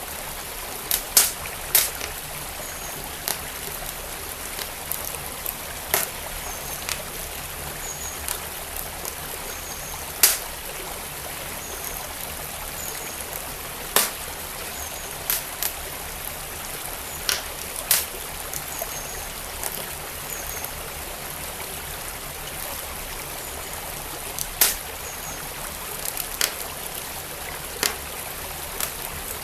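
Wood fire crackling in a fireplace, with irregular sharp pops and a few louder snaps, over the steady rush of a flowing stream.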